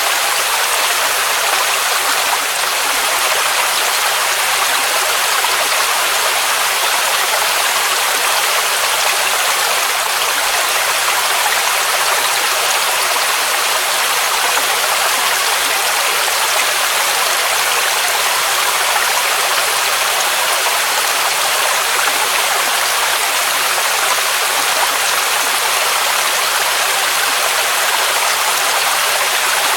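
Waterfall rushing: a steady, even roar of falling water, mostly hiss-like with little bass.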